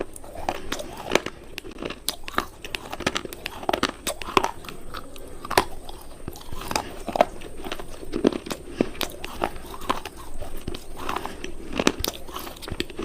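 Coloured crumbly cubes crunching close to the microphone in quick, irregular crackles and snaps.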